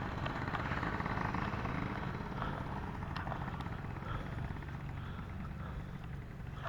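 A small engine running steadily with a fast, even pulse, and a couple of light clicks.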